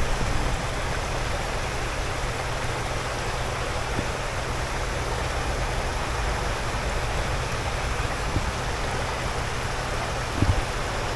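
Water rushing steadily over a river weir, with a brief low knock about ten seconds in.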